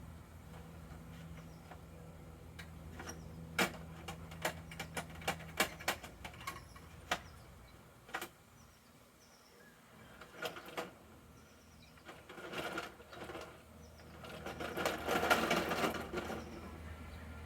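Plastic toy garbage truck worked by hand: a run of sharp plastic clicks, then clattering, rustling bursts as its load is tipped and shaken, loudest near the end. A low steady hum runs underneath and stops about six seconds in.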